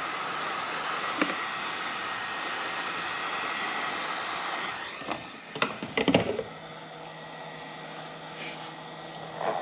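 Electric heat gun blowing steadily while shrinking heat-shrink tubing over a wire, switched off about five seconds in. A few sharp clicks and knocks of handling follow.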